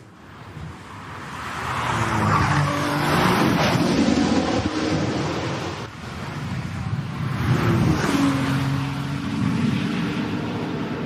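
Racing car engine at full throttle, its note building over the first few seconds; it drops away sharply about halfway through, then a loud engine note builds again.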